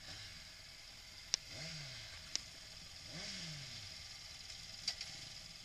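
A motorcycle engine whose pitch rises and falls twice, with a few sharp clicks in between.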